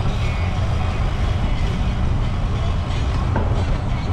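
Steady low rumble of wind buffeting the microphone of a camera on a moving bicycle, mixed with road noise.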